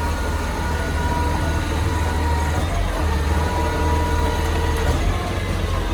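Recycling truck engine running steadily under load, with a faint steady whine over the low rumble, as the truck's grabber arm lifts and empties a full recycling can.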